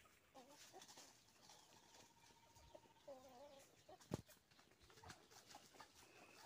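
Near silence with faint bird calls, and a single sharp click about four seconds in.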